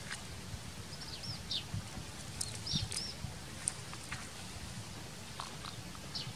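Small birds chirping in short, high, scattered notes, several in the first half and a few more near the end, over a steady low outdoor rumble.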